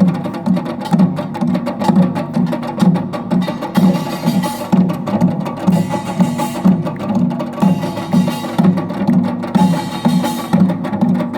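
Samulnori ensemble playing: drums strike a fast, steady beat, with sharp, dense strikes above it over the first few seconds that thin out later.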